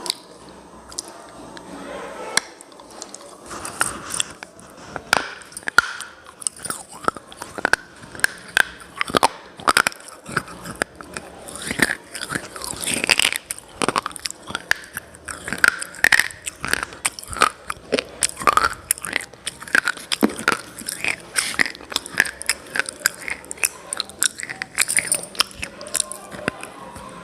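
A person biting and chewing hard, brittle mineral pieces: a long run of sharp cracks and crunches, with chewing between the bites.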